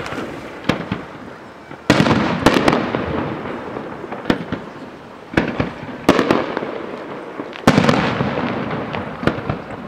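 Aerial fireworks bursting: four big booms, each trailing off in a long rumbling echo, with smaller pops and crackles in between.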